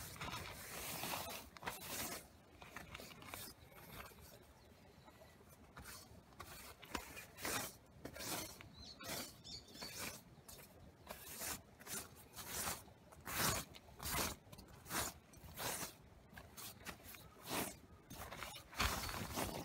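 A series of short scraping strokes, irregular at about one or two a second, growing louder and closer together in the second half.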